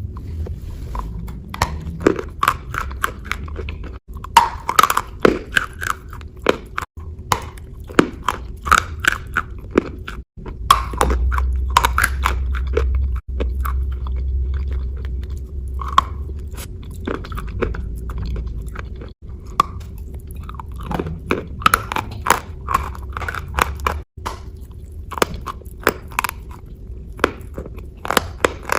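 Fake-eating ASMR wet crunching close to the microphone: a crunchy material worked with paste, giving dense runs of sharp crunches, over a steady low hum. The crunching breaks off abruptly every few seconds where clips are spliced together.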